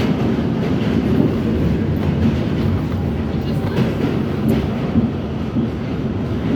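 R68 subway train running, a loud steady rumble with a few clicks from the wheels over the track.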